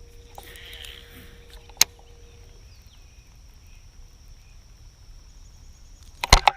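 Quiet outdoor ambience aboard a small fishing boat, with a steady high whine throughout. There is a single sharp click a little under two seconds in, and near the end a sudden loud clatter of knocks and thumps against the boat.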